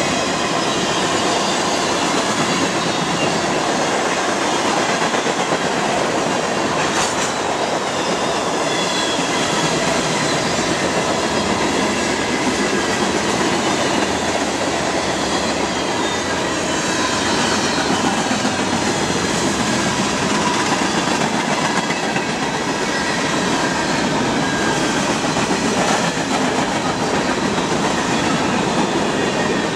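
A BNSF mixed freight train's cars rolling past: a steady, loud rumble of steel wheels on rail with clickety-clack from the rail joints and faint thin wheel-squeal tones.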